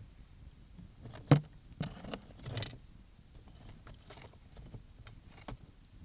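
Wood fire crackling: one loud sharp pop about a second in, then a short run of louder crackles and snaps, and scattered faint ticks after that.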